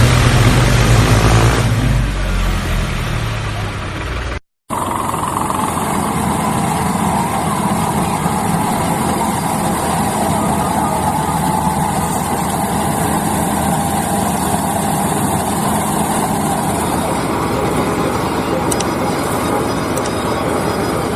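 Engine running steadily: a deep low-pitched hum for the first four seconds, then a cut to silence about four and a half seconds in. After the cut comes a steadier, higher-pitched running hum.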